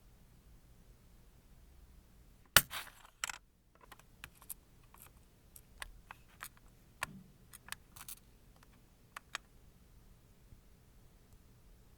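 Scattered small clicks and taps of small objects being handled, with one sharp, louder click about two and a half seconds in followed by a short rattle, then a dozen or so light clicks at uneven intervals.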